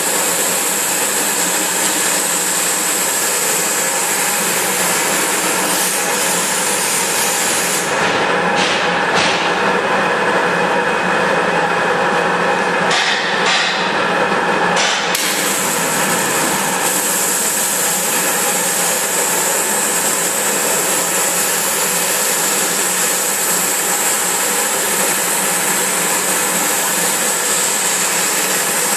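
Flow abrasive waterjet cutting machine running, a loud, steady hiss of the high-pressure jet. For about seven seconds, starting roughly a third of the way in, the high part of the hiss drops away, leaving a lower rushing noise with a few short clicks, before the full hiss returns.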